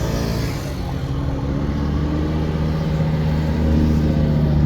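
Car engine running steadily at low revs, its note wavering briefly at the very start and then holding even.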